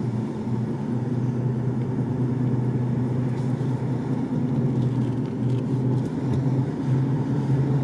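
A car driving along a road, heard from inside the cabin: a steady low engine and road hum.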